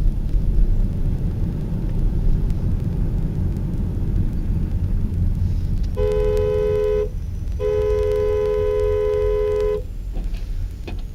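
Car horn honking twice, a short blast and then a longer one of about two seconds, two tones sounding together. Under it runs a steady low rumble of road and engine noise.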